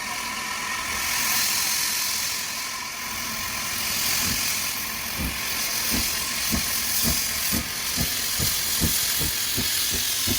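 Steam locomotive with a steady hiss of escaping steam. From about four seconds in come low, regular beats that get quicker and quicker as the train gathers speed.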